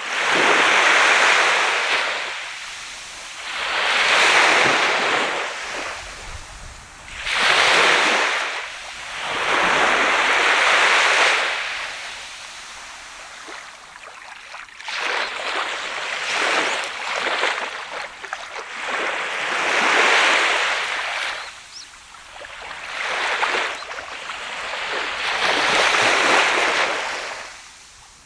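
Sea waves breaking and washing up a sandy beach, the surf swelling and fading in surges every three to five seconds, with a rougher, choppier stretch in the middle.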